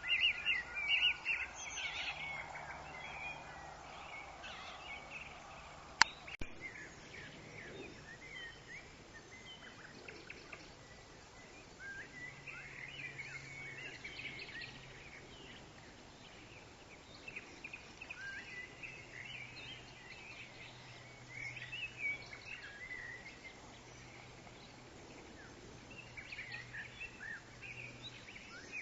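Forest birds chirping and calling, many short overlapping calls with a rapid trill at the start, over a steady background ambience. A single sharp click stands out about six seconds in.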